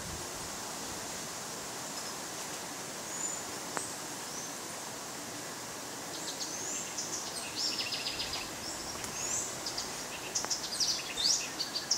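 Outdoor vegetation ambience: a steady background hiss, with a few faint high whistles and then, in the second half, a busy run of high, quick bird chirps and short falling notes.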